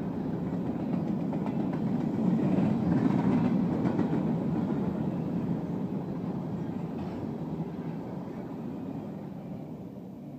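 Covered hopper cars of a freight grain train rolling past: a steady rumble of steel wheels on rail that peaks a few seconds in, then fades as the last car goes by.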